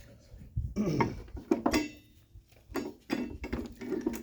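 Metal clinks, knocks and scrapes of a spring compressor's U-bolts and nuts being handled and threaded on, a series of short irregular impacts.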